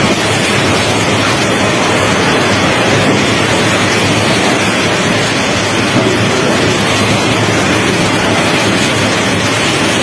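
Heavy rain driven by strong storm wind, a loud steady rushing noise.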